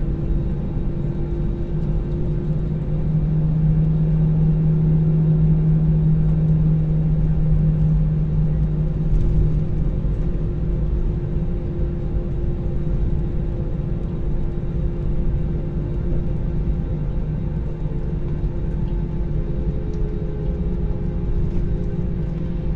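Steady drone of an airliner's jet engines and rushing air heard inside the passenger cabin. A low hum swells a few seconds in, then eases.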